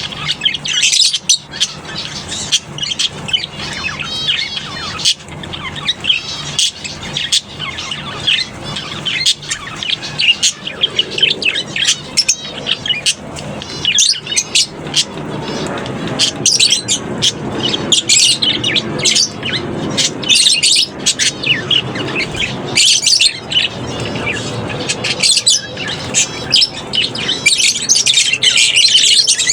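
A colony of lovebirds chattering: many high-pitched chirps and squawks overlapping without a break.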